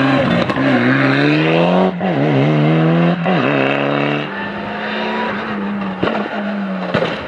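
Mitsubishi Lancer Evolution rally car's turbocharged four-cylinder engine accelerating hard. The revs climb, drop sharply twice at gear changes about two and three seconds in, then climb again. After a cut about four seconds in, the engine holds a steadier, lower note.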